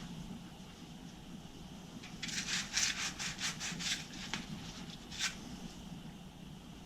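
A quick run of about ten scrubbing strokes against the metal of a water heater tank, about five a second, then one more stroke a second later.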